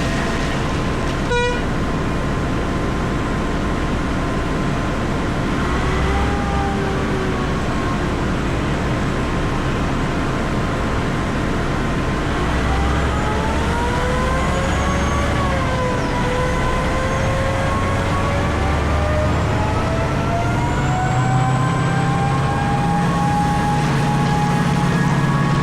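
Komatsu PC4000 hydraulic mining excavator running, heard from inside its cab: a steady low drone with whining tones that rise and fall as the machine works, and one sharp click about a second in.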